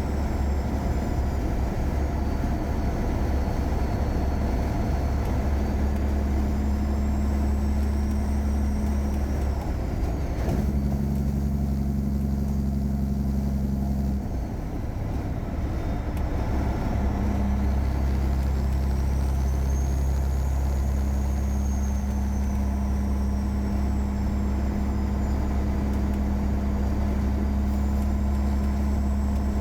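The tuned Caterpillar 3406E inline-six diesel of a 1999 Freightliner Classic running steadily on the road. The engine note changes about a third of the way in and dips briefly near the middle before settling again.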